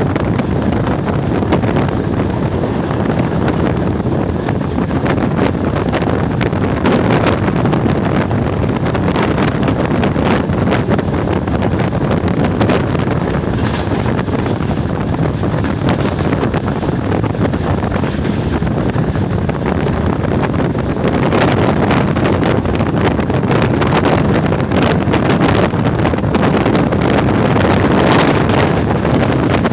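Passenger train running at speed, heard from an open coach doorway: a steady rush of wind buffeting the microphone over the running noise of the coach on the rails.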